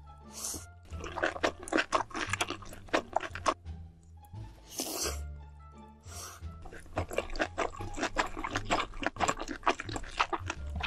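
Close-miked chewing of a large mouthful of noodles and rice: dense, rapid wet mouth clicks in two long stretches, broken by two short hisses, about half a second in and about five seconds in. Background music plays underneath.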